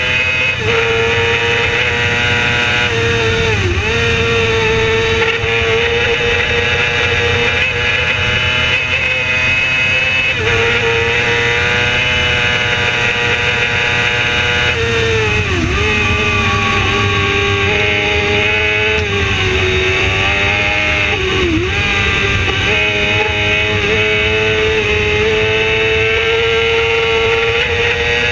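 Racing motorcycle engine running hard under steady throttle, with wind rush. The pitch holds mostly steady, dipping sharply and recovering three times: about four seconds in, around the middle, and about three quarters through.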